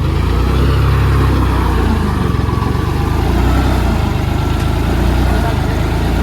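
Tractor diesel engine running steadily with a strong low rumble.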